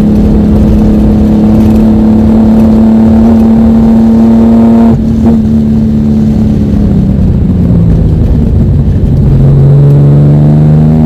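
Ford Mustang V6 engine running at high, steady revs, heard from inside the car, with a brief break about five seconds in. The revs then fall and climb steadily again near the end.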